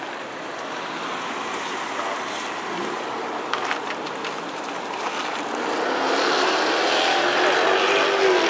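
A car engine accelerating, growing louder over the last few seconds with its pitch rising and then dropping, over a steady rush of background noise. A few short sharp clicks come about three and a half seconds in.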